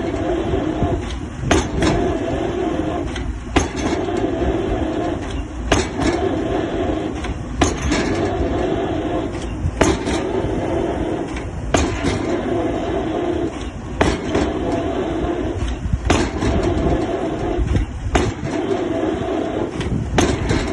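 Excavator-mounted drop hammer striking a square concrete pile, one sharp impact about every two seconds, ten or so blows in all, over the steady running of the excavator's engine.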